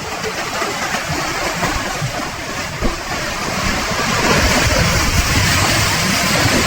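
Rushing, churning water: a steady noise that grows louder about four seconds in.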